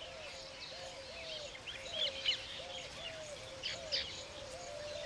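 Birds chirping in short, high bursts, loudest about two seconds in and again near four seconds, over a low call repeated about twice a second.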